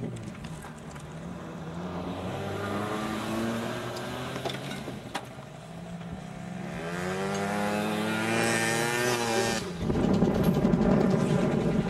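Car engines running as old banger-racing cars drive around a dirt track, one revving up with a long rising pitch about two-thirds of the way in. Near the end a loud rushing noise suddenly covers the engines.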